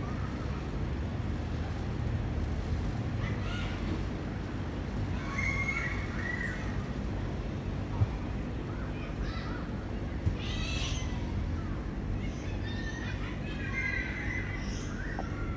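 Cockatoos calling with harsh squawks every few seconds over a steady low rumble, with two short knocks partway through.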